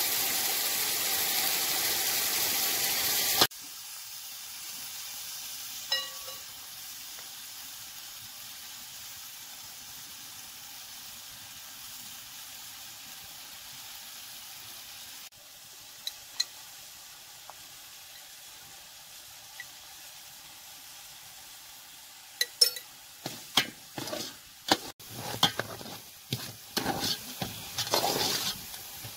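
Tomatoes, onions and garlic sizzling in oil in a large metal cooking pot. The sizzle is loud at first and drops to a quieter steady hiss after about three and a half seconds. Near the end a metal ladle scrapes and clinks against the pot as the sauce is stirred.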